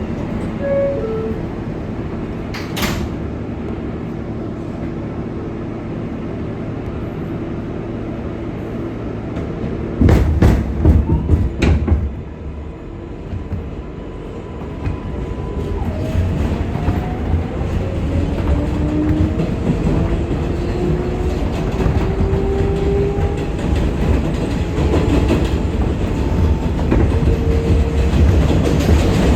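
R188 subway train running on the 7 line, a steady rumble with a burst of loud wheel clatter about ten seconds in, then the traction motors' whine rising slowly in pitch as the train picks up speed.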